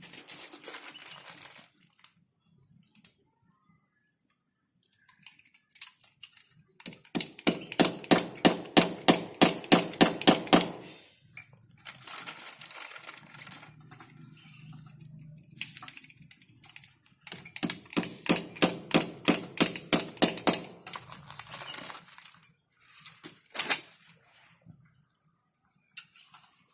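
Rapid, evenly spaced knocking, about four strikes a second, in two runs of three to four seconds each, with one more sharp knock near the end.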